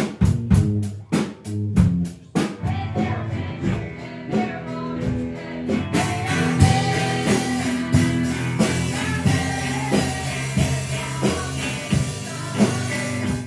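Rock band playing drums, electric guitar and bass, with a voice singing. A steady drum beat of about four hits a second opens it, then sustained chords under a cymbal wash from about six seconds in, stopping abruptly at the end.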